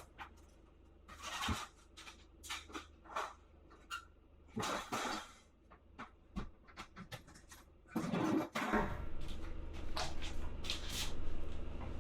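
A string of short, irregular rustles, knocks and scrapes of handling and movement, over a steady low hum that grows louder about nine seconds in.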